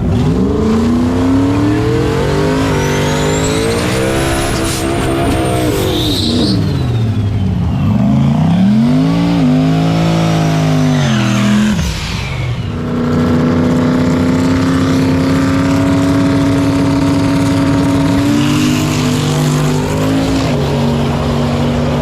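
Drag racing cars launching and running down the strip, their engines revving hard and climbing in pitch with several drops at the gear shifts, a thin high whine rising over them early on. For the last several seconds a steadier engine note holds.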